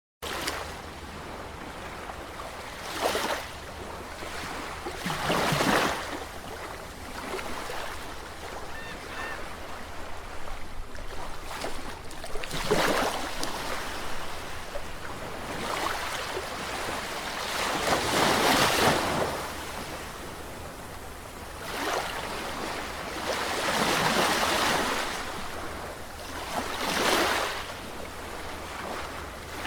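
Sea waves breaking on a shore, the surf surging and washing back in a slow rhythm: about six swells, one every few seconds, the biggest a little past halfway.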